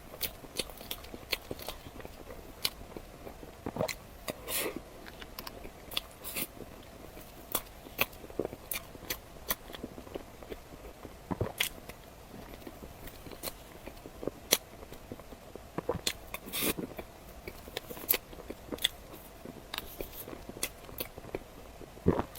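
Close-miked eating sounds: bites and chewing, with irregular sharp crisp clicks and wet mouth sounds every fraction of a second to a second.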